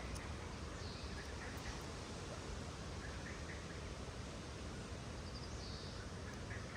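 Birds calling in short scattered chirps over a steady outdoor background noise.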